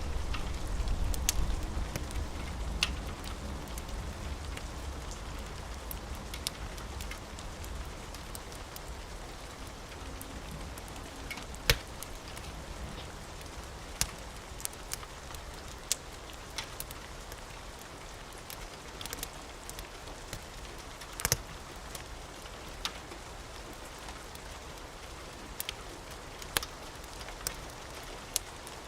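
Steady rain hiss with a wood fire crackling, its sharp pops scattered irregularly throughout. A low rumble of thunder dies away in the first few seconds.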